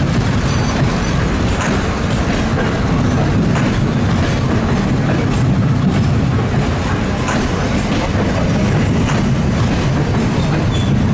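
Departing passenger train rolling past at low speed: a steady heavy rumble of wheels and cars, with the clickety-clack of wheels over the rail joints.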